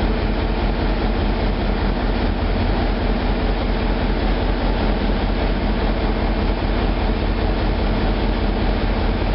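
Steady loud engine-room noise of a MaK 8M32 eight-cylinder medium-speed marine diesel main engine running, an even rumble with no change.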